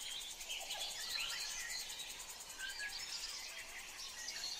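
Faint chorus of many small birds chirping, short rising and falling chirps overlapping one another without pause.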